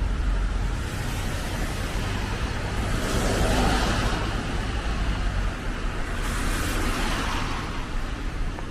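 Road traffic on a snowy street, with two cars passing, the first about three seconds in and the second about six seconds in, over a steady low rumble.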